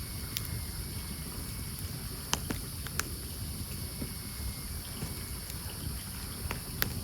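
Wood campfire burning and crackling, with a few sharp pops from the logs, the loudest a little over two seconds in, at three seconds and near the end, over a steady low rush.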